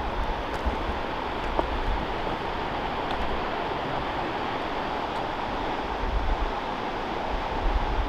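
Steady rushing of a mountain stream over rocks, with wind buffeting the microphone in low gusts near the start and near the end.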